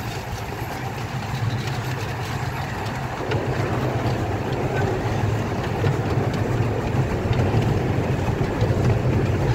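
Miniature steam train rolling along its track: a steady rumble of wheels and cars on the rails, with small scattered clicks.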